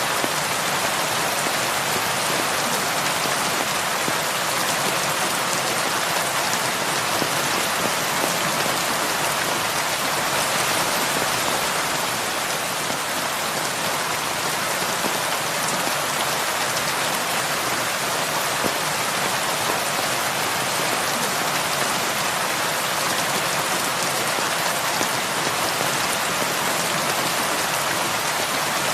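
Heavy rain falling and pattering on surfaces as a steady, even hiss with no pauses or thunder.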